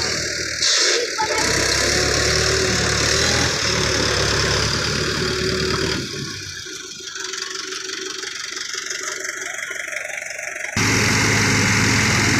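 Tractor engine running steadily, with abrupt drops and jumps in level where the footage is cut: quieter from about six seconds in, louder again near the end.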